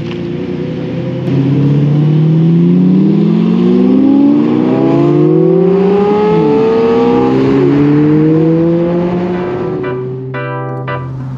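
Supercar engine accelerating hard, its revs climbing and dropping back at each gear change, then settling into a steadier drone near the end.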